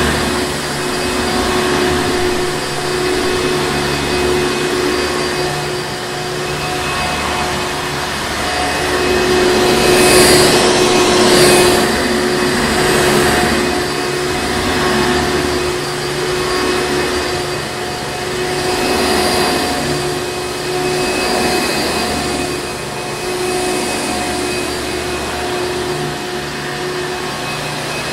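Hoover Encore Supreme vacuum cleaner running with a steady motor hum and whoosh, swelling and easing gently every few seconds, loudest about ten seconds in.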